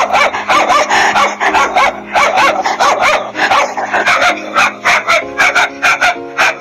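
Dog barking and yipping in quick succession, several short barks a second, over background music.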